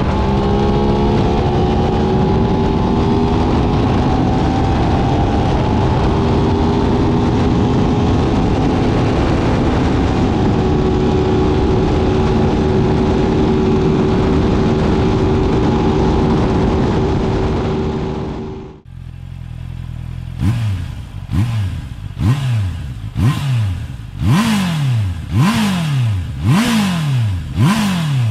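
Sport motorcycle at high speed, heavy wind rush over the engine, whose pitch climbs slowly. After an abrupt cut about two-thirds in, the engine is revved in about eight quick throttle blips, each rising and falling in pitch.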